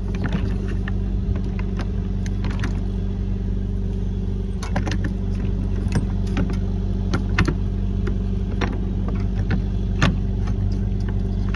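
A large engine running steadily with a low, even hum, with scattered sharp clicks and knocks of metal being handled over it.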